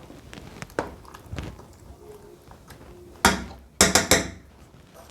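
A few sharp knocks, one about three seconds in and then three in quick succession just after, with softer clicks before them.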